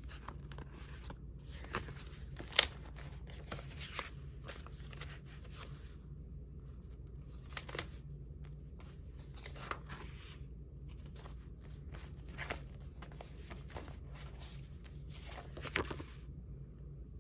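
Old paper envelopes and postcards being handled and leafed through: soft paper rustles with scattered sharp clicks, the sharpest a bit over two and a half seconds in.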